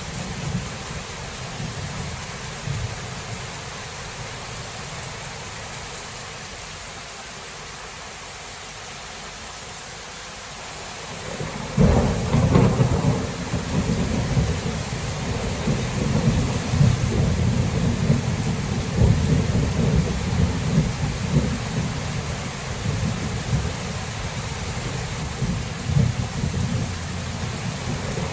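Thunderstorm with steady rain hissing throughout. A low rumble of thunder fades away over the first ten seconds, then about twelve seconds in a sudden loud thunderclap breaks, followed by long rolling rumbles.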